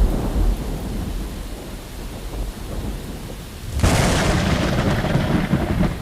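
Thunder rumbling low, then a sharp new thunderclap about four seconds in that rolls off into rumble.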